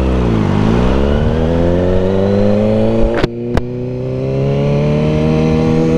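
Vehicle engine accelerating, its pitch rising steadily, with a brief break and a couple of clicks about three seconds in before it climbs on.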